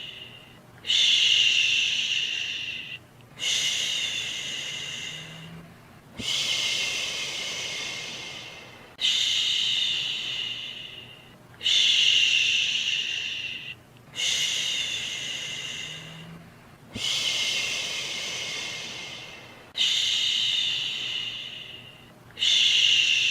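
A person's soothing 'shhhh' shushing, repeated over and over. Each shush starts strongly and trails off over two or three seconds, about nine of them, one every two and a half seconds or so.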